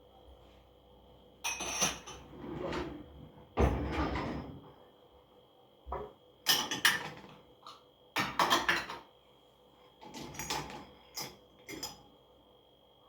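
Kitchen clatter of dishes and pots being handled: a series of clinks, knocks and bangs in about eight separate bursts, one heavier thud about four seconds in.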